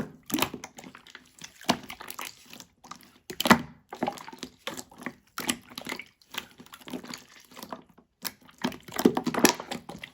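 Small stones and gravel dropped into water: an irregular run of plops and clatters, with louder splashes about 3.5 s in and again near the end.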